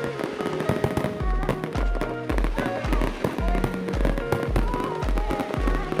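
Music with a steady bass beat, about two beats a second, over fireworks bursting and crackling.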